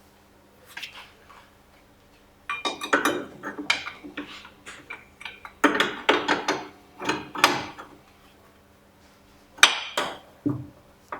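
Metal tools and parts clinking and knocking in irregular bursts during the fitting of new front anti-roll bar bushings, with one sharp knock near the end.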